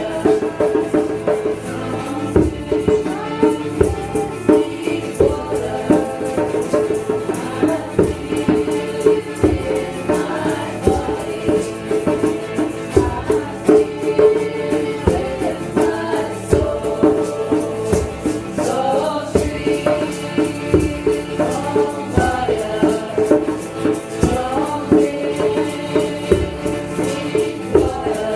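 Kirtan: voices chanting over a steady held drone chord, with a rattling shaker keeping a quick, even beat.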